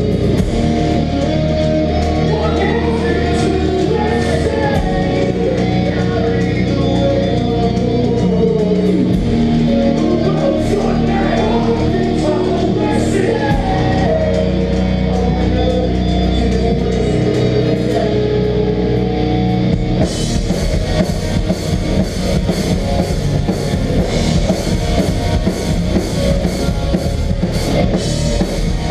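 Melodic hardcore band playing live: distorted guitars ring out sustained chords with a gliding melodic line, then about two-thirds of the way through the full drum kit comes in hard with crashing cymbals.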